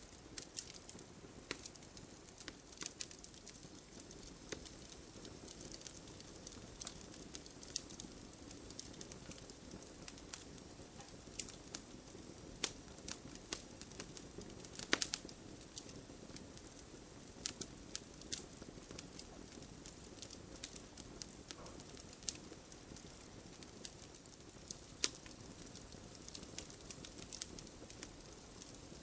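Wood fire crackling in a fireplace, with a steady low hiss and irregular sharp pops, the loudest about halfway through.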